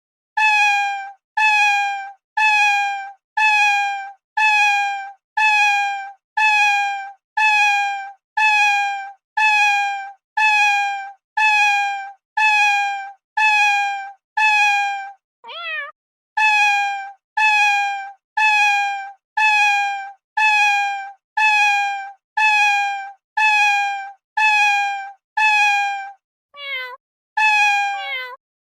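A domestic cat meowing over and over in a rapid, even string of short, slightly falling meows, about one every three-quarters of a second. About halfway through the string breaks for a single rising, wavering call.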